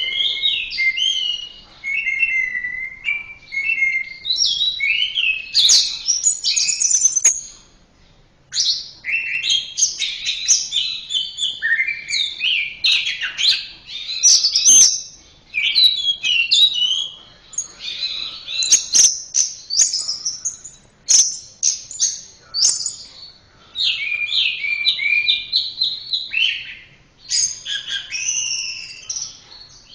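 Orange-headed thrush (anis merah) singing a rapid, varied song of chirped and whistled phrases, almost without pause, breaking off briefly about eight seconds in.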